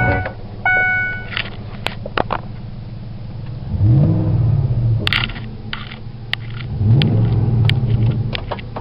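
2004 Ford F-150's 4.6 V8 idling through a Thrush turbo muffler, revved briefly twice, about four and seven seconds in, heard from inside the cab. Scattered sharp clicks sound over the idle.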